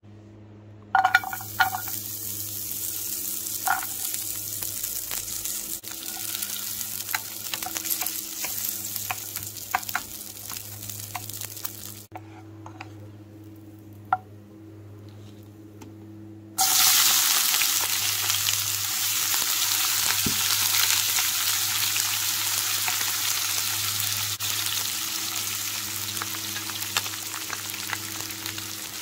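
Diced pancetta sizzling in hot oil in a non-stick frying pan, starting suddenly about a second in, with clicks of a wooden spatula stirring. The sizzle drops away for a few seconds about 12 seconds in, then comes back louder once sliced red onion is in the pan. A steady low hum runs underneath.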